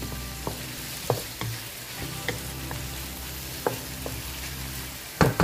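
Sliced onion, tomato, garlic and green chilies sizzling in hot oil in a wok while a wooden spatula stirs them, scraping and tapping the pan every so often. Two louder knocks near the end.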